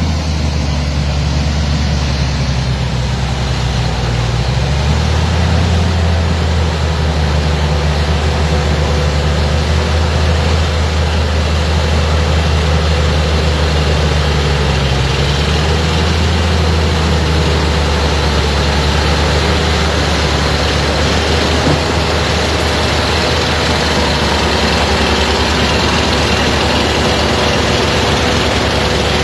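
Heavy diesel engine running steadily at a low, constant pitch.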